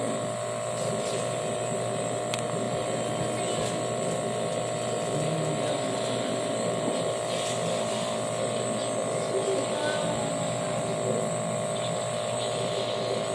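Steady motor-like buzz with a low hum, unbroken throughout, with a few faint clicks.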